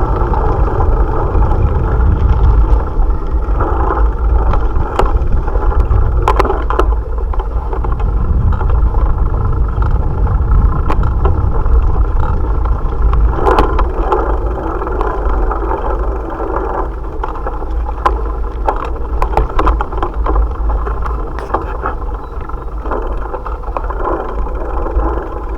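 Wind buffeting the microphone of an action camera on a moving bicycle, a steady heavy rumble, over the hum of the tyres and the ride, with scattered sharp knocks and rattles from bumps.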